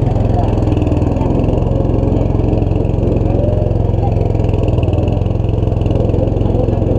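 Boat's engine running steadily at a constant speed, a loud, even drone.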